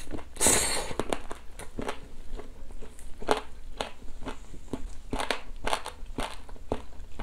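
A bite into a smoked chicken drumstick near the start, then close-up chewing of the meat, picked up by a lapel mic as many irregular small clicks and smacks.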